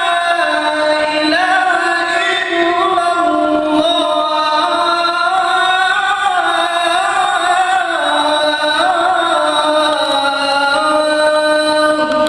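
A man's voice calling the adhan, singing long held notes with melismatic ornaments that waver up and down in pitch. The voice stops just before the end.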